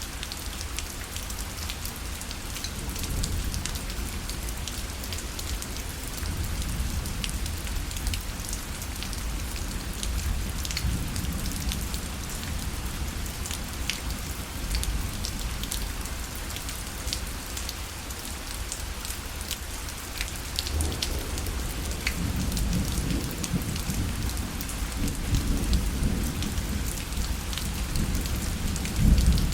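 Steady rain falling on a fabric parasol, with many separate drop ticks over a constant hiss. A low rumble swells through the second half and peaks just before the end.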